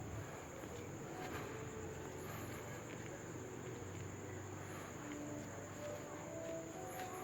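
Crickets trilling steadily as a faint, unbroken high-pitched background.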